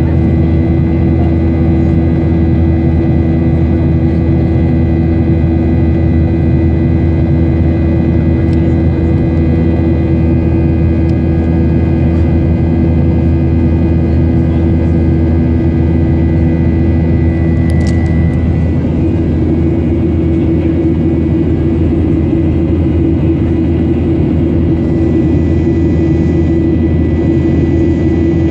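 Boeing 737-800's CFM56 jet engines running at steady power: a loud, even drone with a constant whining tone on top. About two-thirds of the way in the high whine fades and the lower hum grows stronger.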